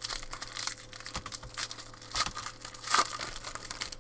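Foil trading-card pack being torn open and crinkled by hand, with irregular crackling rustles that are loudest about two and three seconds in.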